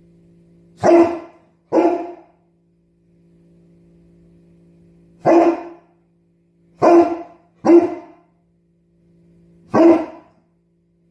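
Bernese Mountain Dog giving deep woofs, six barks in all, singly and in quick pairs a few seconds apart: barking to demand attention.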